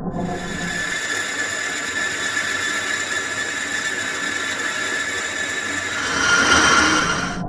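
Metal lathe cutting, with a steady high-pitched whine of several tones from the tool on the workpiece, growing louder about six seconds in.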